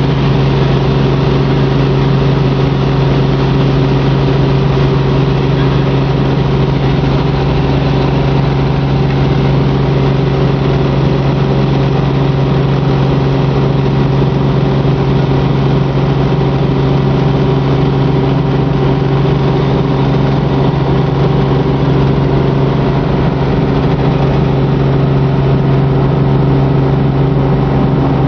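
Helicopter engine and rotors running with a loud, steady drone, heard from on board.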